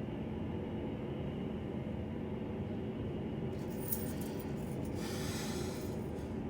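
Steady low hum of an Embraer ERJ-145 regional jet's turbofan engines running at idle after engine start, with a short hiss about five seconds in.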